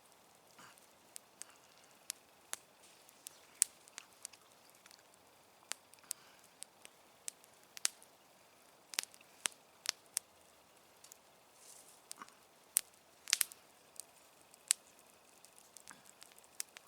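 Campfire crackling: sharp, irregular pops and snaps of burning wood, several of them loud, scattered over a faint background hiss.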